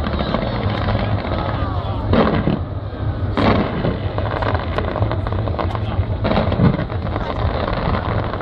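New Year's fireworks display: a dense, continuous crackle of bursting shells, with louder booms about two seconds in, three and a half seconds in, and six and a half seconds in.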